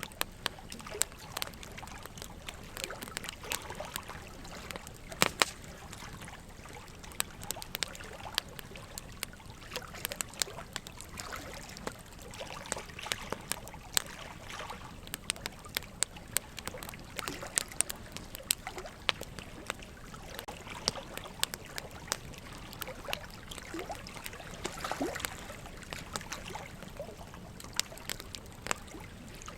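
Wood fire of burning logs crackling, with frequent irregular sharp pops, the loudest about five seconds in, over a steady trickle of running water.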